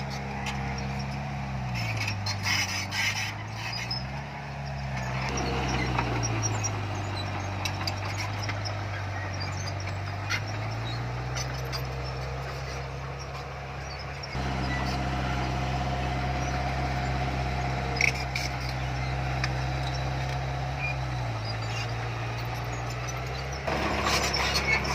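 Heavy construction machine's diesel engine running under working load, its revs dropping and rising several times, with a few metallic clanks.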